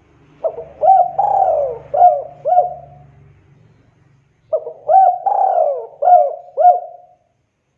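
Spotted dove (tekukur) cooing: two matching phrases about four seconds apart. Each phrase is a short note, a longer falling coo, then a few short coos.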